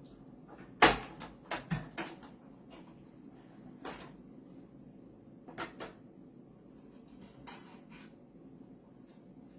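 Several sharp clacks and knocks of papercrafting tools being handled and set down on a hard work table, the loudest about a second in, a quick cluster just after, and a few lighter ones later.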